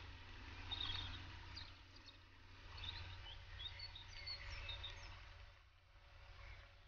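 Faint birdsong: scattered short chirps and calls from several birds, over a low steady rumble.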